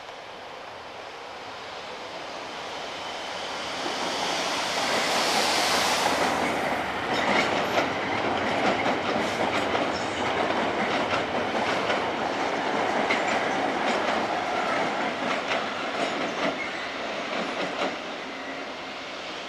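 A Network Rail railhead treatment train with diesel locomotives passes close by. A rising rumble and hiss build for the first six seconds, then the tank wagons' wheels click rapidly over rail joints and pointwork for about ten seconds before fading near the end.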